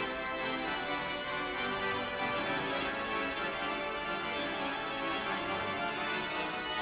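Organ music, playing full sustained chords.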